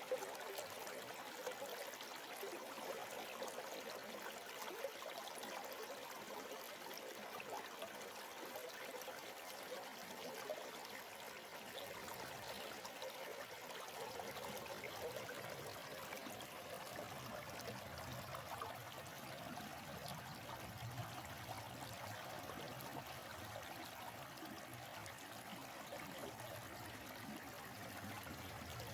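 Stream water flowing and trickling steadily, an even rushing babble.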